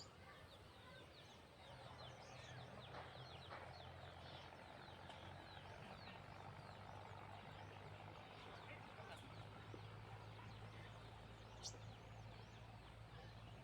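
Faint chorus of many small birds chirping in quick short calls, over a low steady hum. A couple of sharper, higher calls stand out near the end.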